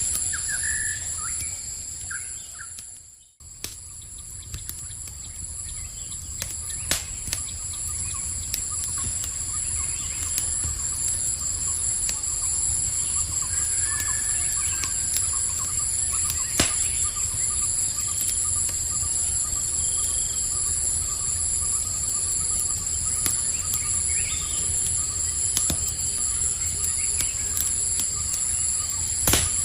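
Campfire crackling with scattered sharp pops over a steady, high-pitched insect chorus, with a few short bird chirps near the start. About three seconds in the whole sound briefly drops almost to silence, then fades back up.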